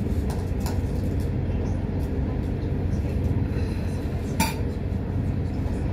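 Steady low rumble of a moving train heard from inside the carriage, with a few light clicks and one sharp clink about four and a half seconds in.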